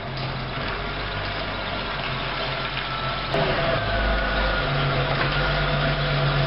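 Audi 100 (C4) sedan's engine running at idle, a steady hum. Its tone shifts slightly about halfway through.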